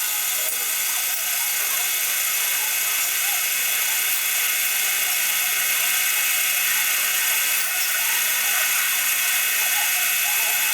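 Small electric machine tool, likely the Warco Super Mini Lathe, running steadily with a high whine from its motor and drive, starting and stopping abruptly.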